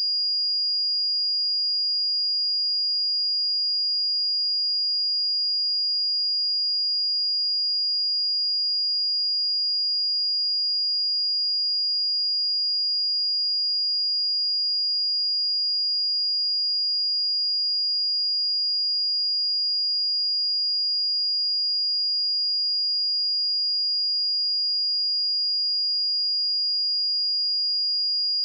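Pure 4848 Hz sine-wave test tone, a single steady high-pitched whistle held without change.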